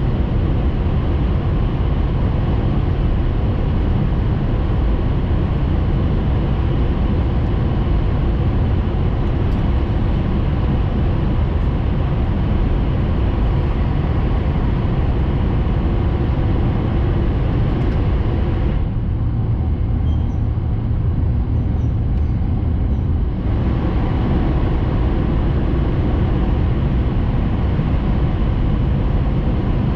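Tohoku Shinkansen Hayabusa train running, heard from inside the passenger cabin: a steady rumble with hiss above it. For a few seconds about two-thirds of the way in, the hiss dulls, then comes back.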